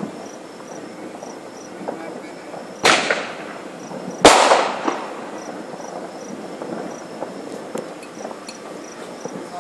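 Two firework bangs about a second and a half apart, the second louder, each fading out in a rumbling tail. Crickets chirp steadily throughout.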